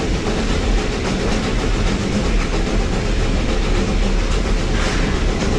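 Steady rumble and clatter of a moving train heard from on board, wheels running over the rails. A short rush of louder, higher noise comes about five seconds in.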